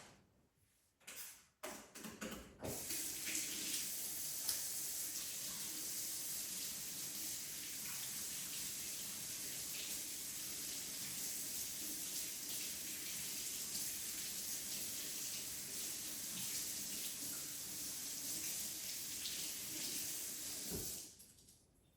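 Water running steadily from a tap, a hiss that starts after a few knocks about two and a half seconds in and cuts off suddenly about a second before the end.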